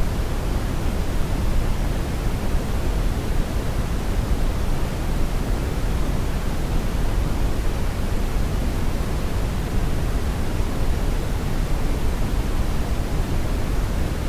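Brown noise: a steady, unchanging rumbling hiss, strongest in the low end.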